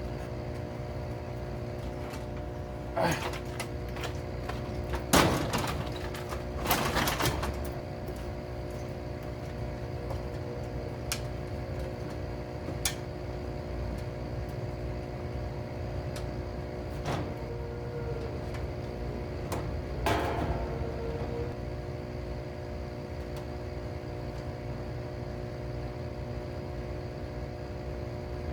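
A few knocks and scrapes of PVC drain pipe and fittings being handled and pushed together after gluing, two with a brief squeal, over a steady mechanical hum.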